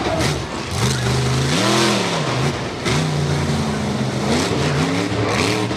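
Race car engines running on track, their pitch climbing and dropping several times as the cars accelerate and lift, over a steady rush of noise.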